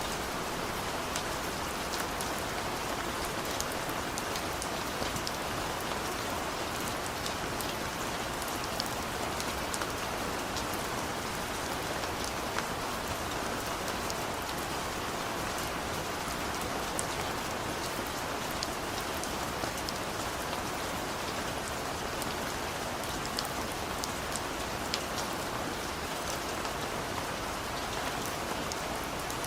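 Steady rain falling, a constant hiss with many individual drops ticking sharply on surfaces.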